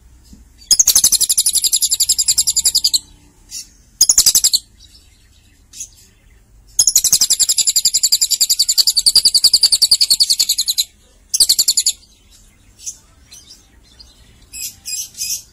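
Lovebird singing in long, rapid, high-pitched trills, the longest running about four seconds, separated by short pauses, then a few shorter choppy chirps near the end.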